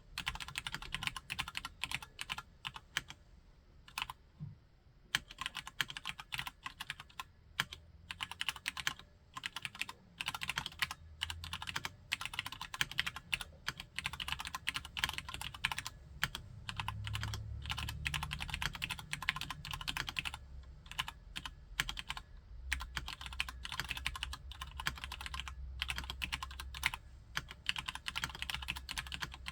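Typing on a Cherry G80-3000S tenkeyless mechanical keyboard with Cherry MX Brown switches: fast, continuous keystrokes with a short pause about three seconds in.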